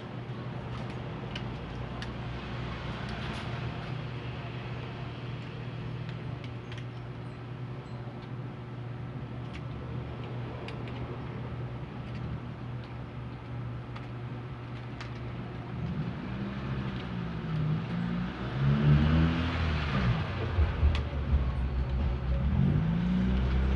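Steady low hum with scattered light clicks. About two-thirds of the way in, a motor vehicle engine grows louder, its pitch rising and falling as it passes.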